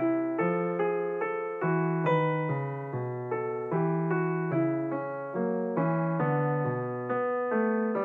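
Background piano music: a note or chord struck about every half-second, each dying away before the next.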